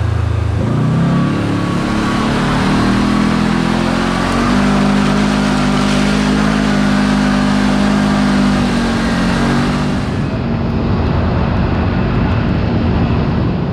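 Kawasaki KRX4 1000 side-by-side's parallel-twin engine revving up about half a second in, then running at a steady higher pitch under way, and easing back off near ten seconds in.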